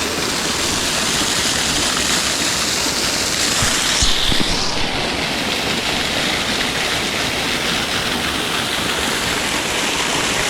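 Waterfall water rushing steadily, with a few brief low knocks about four seconds in.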